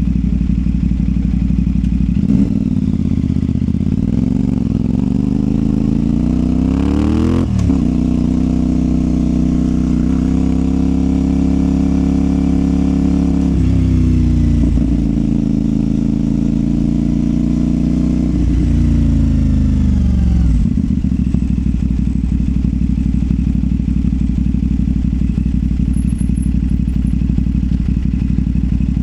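CFMOTO 450SR's parallel-twin engine through a Yoshimura exhaust, running steadily low, then revving up through the gears with quick shifts. It eases off about two-thirds of the way in and settles back to a steady low running note.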